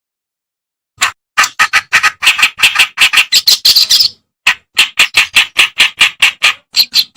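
Reed warbler (kerak basi) singing: a fast run of harsh, scratchy chattering notes, about four to five a second, starting about a second in after dead silence and pausing briefly near the middle.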